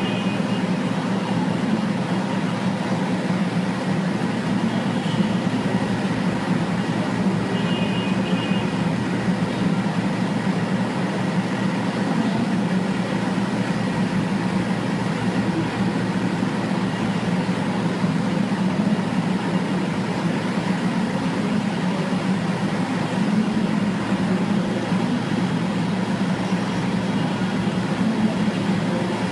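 Steady drone of a moving vehicle's engine and road noise, unchanging throughout, with no impacts.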